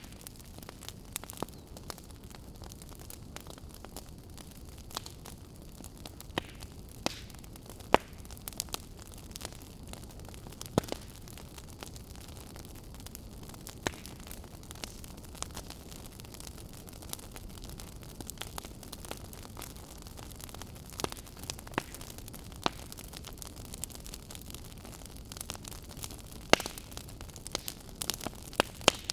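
Wood fire burning, with a steady hiss and frequent irregular crackles and sharp pops from the burning logs.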